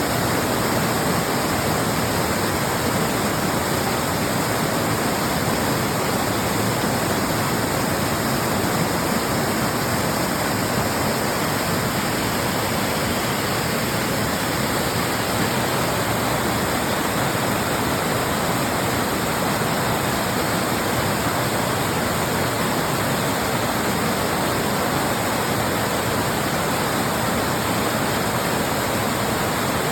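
Small waterfall, water falling and splashing in a steady, unbroken rush.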